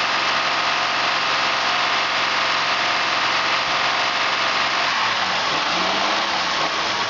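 Honda 3.5-litre V6 engine from a 2000 Odyssey, test-run at a steady idle. About five seconds in its even tone breaks up into a wavering, less regular sound.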